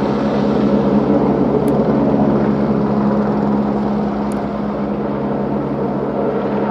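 Helicopter engine and rotor running steady: a constant drone with a fast, even rotor beat underneath.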